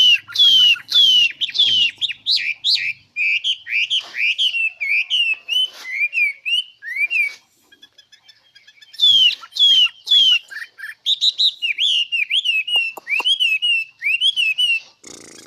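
A songbird singing two phrases, each opening with loud repeated whistled notes that sweep downward and running on into a quicker, varied warble, with a pause of about a second and a half between them.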